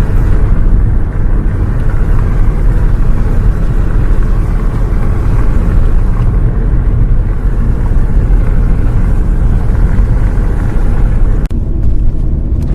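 Steady, dense low rumble of a bus travelling on the road, heard from inside the cabin. Near the end there is a short click and the sound briefly thins.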